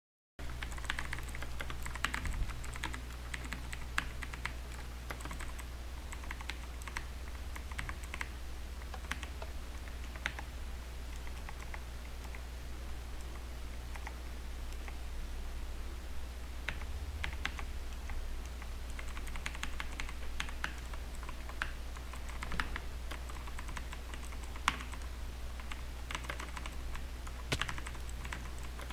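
Irregular light clicking, sparse in places and denser in others, over a steady low hum.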